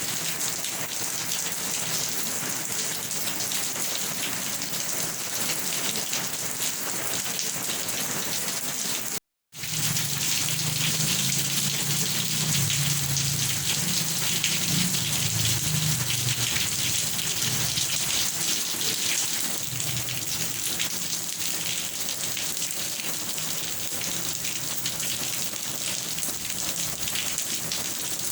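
Steady rain hissing without a break, cut off completely for about half a second about nine seconds in. When it returns, a low rumble sits under it for several seconds.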